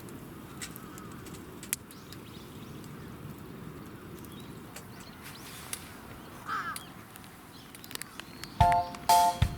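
Quiet outdoor ambience with a low, even hiss and a few sharp clicks, then one short bird call about two-thirds of the way through. Background music starts again near the end.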